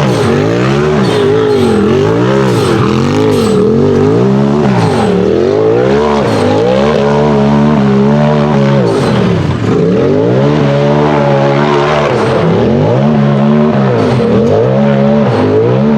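Race UTV buggy engine running hard, revving up and dropping back over and over as the throttle is worked: quick swoops about once a second at first, then a few longer pulls in the middle.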